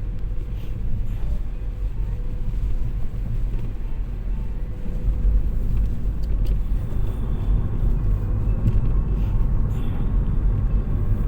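Car engine and tyre noise heard from inside the cabin while driving: a steady low rumble that gets a little louder about halfway through.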